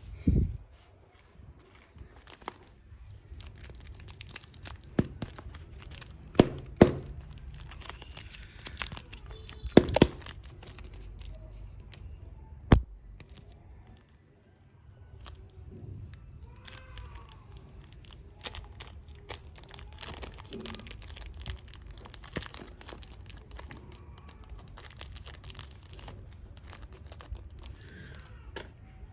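Packaging of super clay being torn open and crinkled by hand, a continuous scratchy rustle broken by several sharp clicks and snaps, most of them in the first half.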